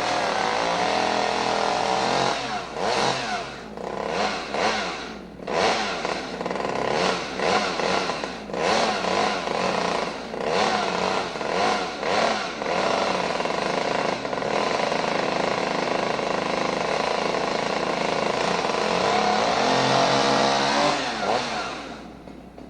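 Small two-stroke chainsaw engine revved in repeated bursts, then held at high revs for several seconds before dropping away near the end.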